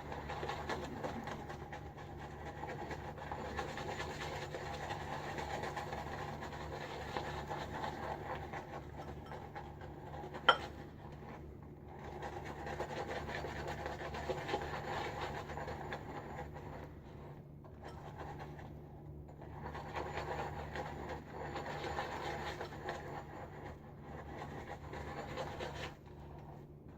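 Firm Cavalier boar-bristle shaving brush whipping shaving soap into lather in a bowl: a steady scratchy rubbing that stops for short moments a few times. A single sharp click comes about ten seconds in.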